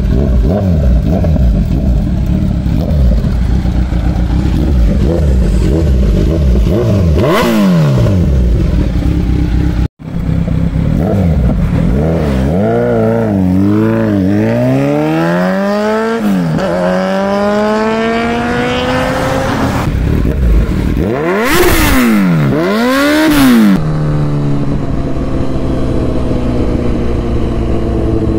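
Kawasaki Z900's inline-four engine through an Akrapovic Shorty titanium full-system exhaust, revved up and down repeatedly. It then accelerates with the pitch climbing in rising sweeps. Near the end come two sharp blips with cracks, and then it runs at high revs with the pitch slowly falling.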